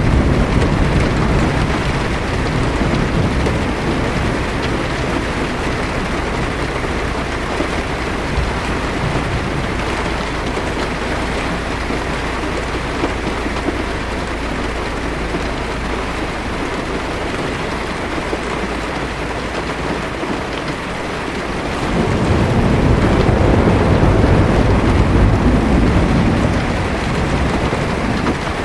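Heavy rain pattering steadily on a car's roof and windshield, heard from inside the car. About three-quarters of the way through, a low thunder rumble swells for about five seconds and fades.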